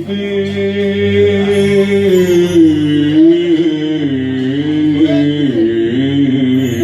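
Male singer drawing out one long, ornamented note in Arabic tarab style, the pitch wavering and sliding, over a steady low accompaniment.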